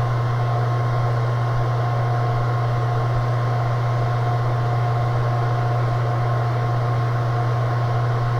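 Steady low mechanical hum with a faint noisy hiss and two thin steady tones above it, unchanging throughout.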